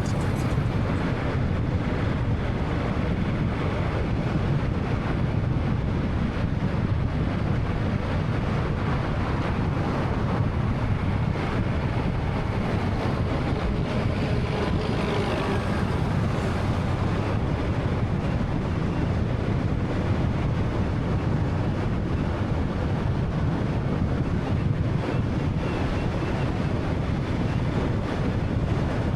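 Steady road and tyre noise with the low hum of a 2013 Honda Fit's 1.3-litre engine while driving, with a brief swell of hiss about halfway through.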